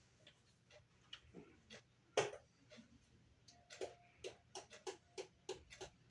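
Faint tapping and clinking of kitchen utensils against a bowl while more cinnamon sugar is added. There are scattered light clicks, a louder knock about two seconds in, then a steady run of taps about three a second from about halfway, one with a short ring.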